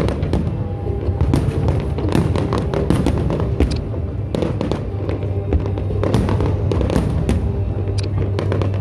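Aerial firework shells bursting one after another in a rapid, dense run of bangs and crackles, with music playing underneath.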